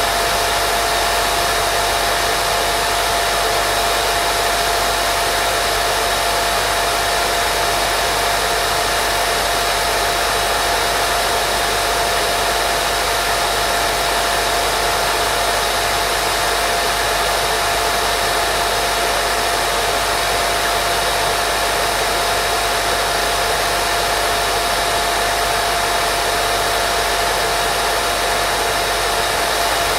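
Continuous white noise: an even, unchanging hiss with a thin steady tone running through it.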